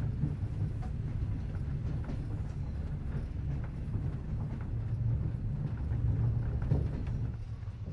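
Soviet-built sleeper train rumbling steadily, with faint, scattered clicks.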